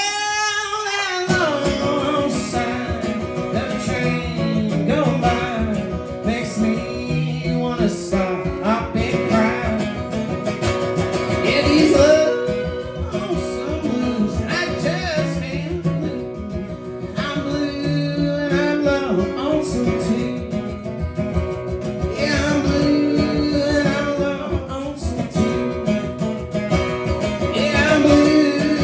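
Live bluegrass music: an acoustic guitar plays a picked instrumental passage to close out the song.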